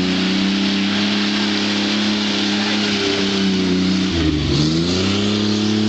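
Vehicle engine held at high revs, straining to climb a slippery mud hill. The revs dip briefly about four seconds in and climb back up, over a steady hiss.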